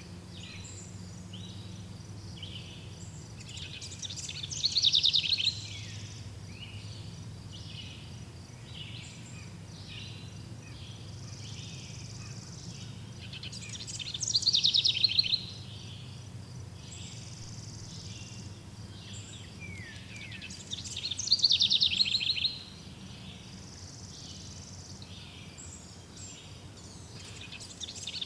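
Birds singing: one bird repeats a loud, fast, high trilling phrase ending in falling notes, three times several seconds apart and again starting at the very end. Under it runs a steady bed of softer high chirps and insect-like calls.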